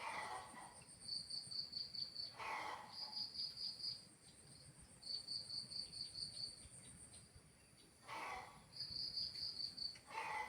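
Crickets chirping: fast pulsed trills about a second long repeating, over a fainter, higher continuous trill. Four short rushing swells of noise break in, about two seconds in, after eight seconds, and near the end.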